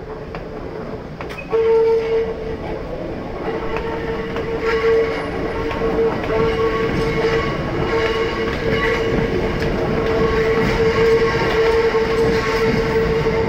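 Hakone Tozan Railway 2000- and 3000-series electric trains pulling out, their wheels rumbling on the track. About a second and a half in, a steady high-pitched squeal sets in and holds, growing slowly louder.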